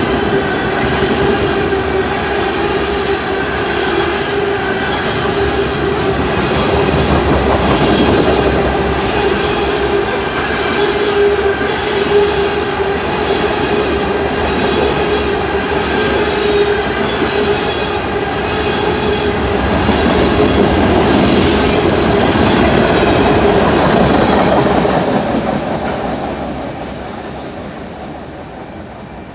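A train running past on its rails: a loud rumble with a steady high whine over it. It fades away over the last few seconds.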